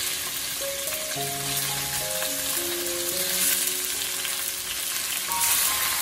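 Strips of raw meat with chopped onion and garlic frying in hot oil in a stainless steel wok: a steady sizzle that flares louder briefly about halfway through and again near the end.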